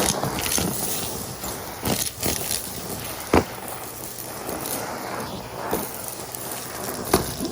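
Numatic Henry canister vacuum cleaner running and sucking up debris, with a few sharp clicks as hard bits rattle up the hose.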